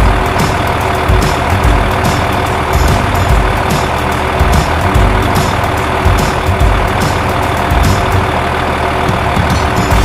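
Remote-control miniature truck running: a steady motor drone with irregular clicks and low thumps.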